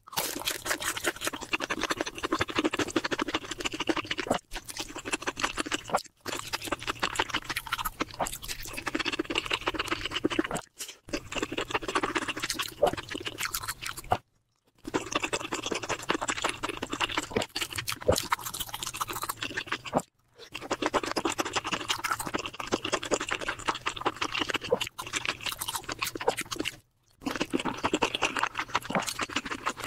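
Close-miked chewing and wet mouth sounds of someone eating, with irregular smacks and soft crunches. It comes in several stretches of a few seconds each, broken by about six abrupt moments of silence.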